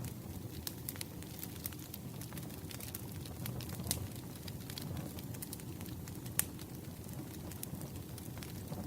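Campfire crackling: a steady low rumble of burning wood with irregular sharp pops and snaps, two of them louder, about four and six seconds in.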